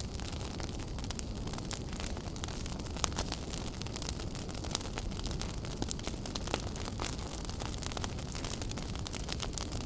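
Wood fire in a fireplace burning with a steady low roar and frequent sharp crackles and pops.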